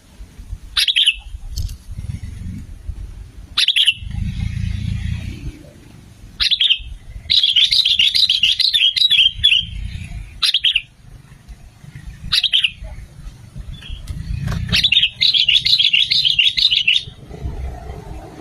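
Sooty-headed bulbul (kutilang) calling: single sharp calls every few seconds, and two longer bursts of rapid chattering song, about seven and fifteen seconds in. A low rumble lies underneath.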